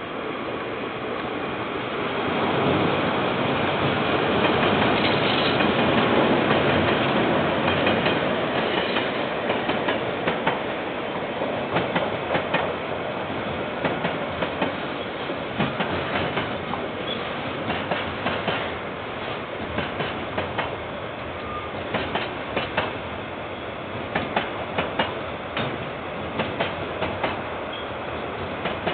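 KiwiRail train passing: the locomotive's running noise swells to a peak in the first several seconds. The wagons then roll by with a steady rumble and a clickety-clack of wheels over rail joints, the clacks coming in quick groups.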